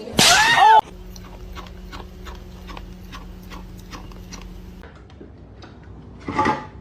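A cat gives one loud, short meow that rises and falls in pitch, followed by faint, regular ticking about three times a second over a low steady hum.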